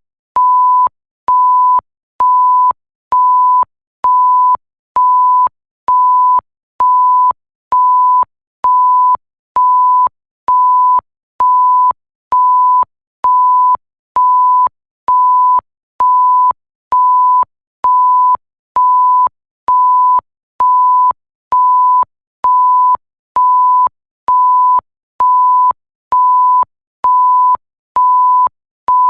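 Censor-style electronic bleep: a single pure tone repeated in an even loop, about one beep a second, each a little over half a second long with short silent gaps and a faint click as it starts and stops.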